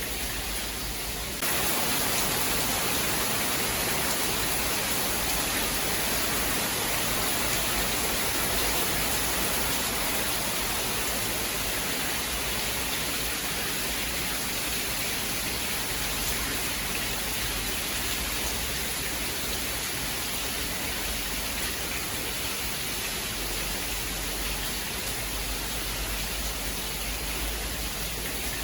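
Steady hiss of heavy rain, with no thunder. The level jumps up and brightens suddenly about a second and a half in, then stays even.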